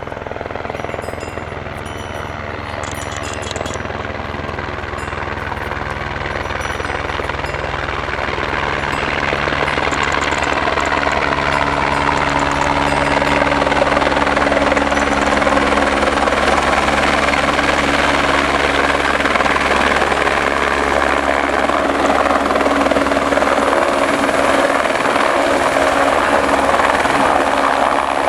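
A small five-seat passenger helicopter's engine and rotor running continuously. The sound grows louder over roughly the first half, then holds steady and loud.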